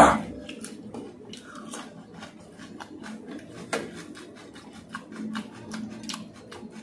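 A person chewing food with many quick wet clicks and smacks of the mouth, with one louder sound right at the start.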